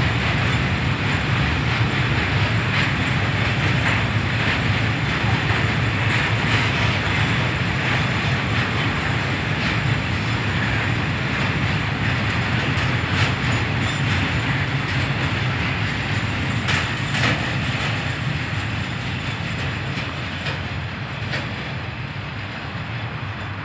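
Freight wagons loaded with steel coils rolling past on the rails: a steady rumble and hiss of wheels on track, with occasional sharp clicks and knocks from the wheels, fading over the last few seconds as the end of the train draws away.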